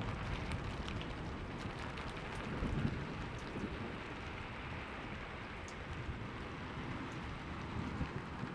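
Steady rain pattering, with scattered sharp drop ticks. A low rumble of thunder swells about two and a half seconds in and dies away.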